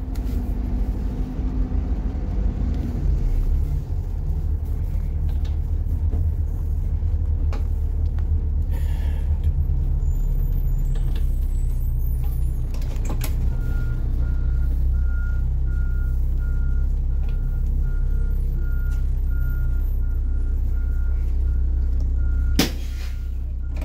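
Diesel school bus engine running with a loud, steady low rumble. About halfway in, a series of evenly spaced beeps at one pitch starts, like a vehicle's backup alarm, and near the end the level drops suddenly.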